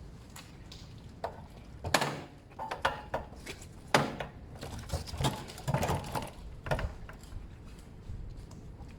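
Irregular clicks, knocks and rustling from hands and tools working on motorcycle exhaust heat wrap and its metal securing clips, loudest in a cluster of sharp clicks in the middle.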